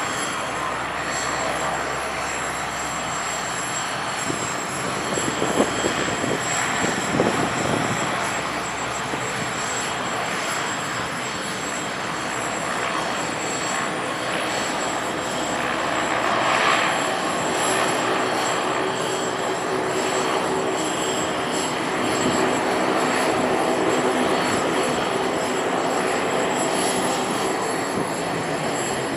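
Turboprop military transport aircraft engines running steadily, with a couple of brief low thumps about six and seven seconds in.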